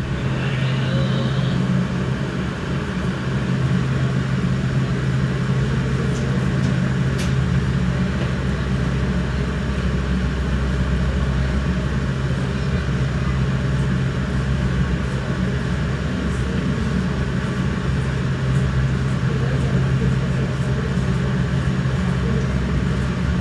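A San Martín line diesel train running, giving a steady low engine hum over a continuous rumble.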